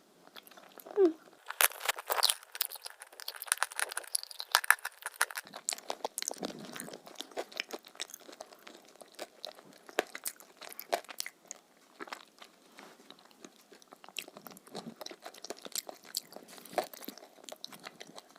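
Close-miked biting and chewing of a crunchy food, with many crisp crunches. They are densest and loudest in the first few seconds, then go on more sparsely.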